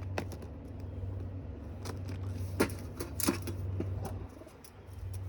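A few sharp taps and knocks from a bird handling and pecking at nuts, over a steady low hum.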